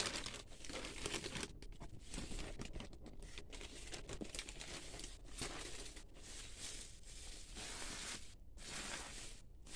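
Packaging being crinkled and torn open by hand, in irregular rustling handling with a few brief pauses.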